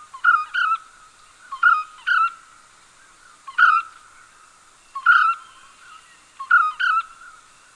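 Yellow-fronted barbet calling: short, slightly upward-hooked notes repeated singly or in pairs, roughly every one and a half seconds.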